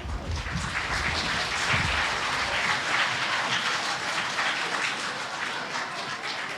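Audience of students and staff applauding in a large hall. The applause is strongest through the middle and tails off toward the end.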